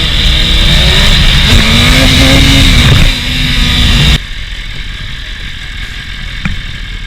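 BMW S1000RR inline-four sport bike accelerating hard, its engine note rising in pitch for about three seconds and dipping briefly at a shift. About four seconds in the sound falls off abruptly to a quieter, steady engine note.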